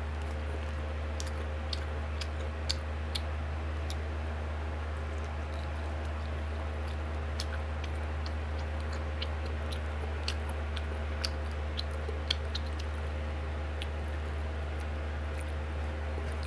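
Chewing and eating by hand: scattered short wet clicks and smacks over a steady low hum.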